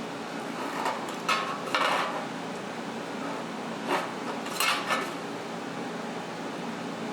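Metal parts clinking and clattering as they are handled, with a handful of short knocks in two clusters: three in the first two seconds and three more around four to five seconds in. A steady low hum runs underneath.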